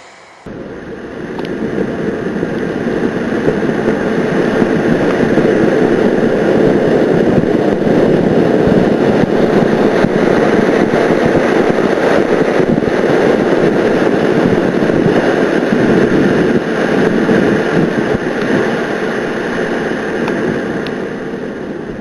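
Small solid-propellant rocket motor (potassium nitrate, aluminium, sulfur, iron oxide and epoxy fuel) firing: a loud, steady rushing noise that starts abruptly about half a second in, builds over the next few seconds, then holds.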